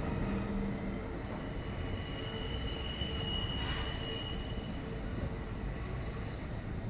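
Electric commuter train running on rails, a steady rumble with a thin wheel squeal rising over it around the middle.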